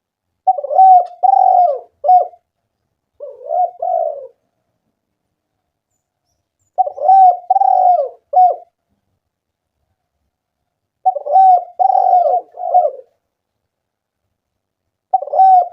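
Spotted dove (tekukur) cooing: repeated phrases of three or four low, rounded coos, each phrase lasting about a second and a half, with pauses of two to three seconds between. It is the steady song of an actively singing (gacor) dove, the kind of call used to lure and prompt other doves to sing.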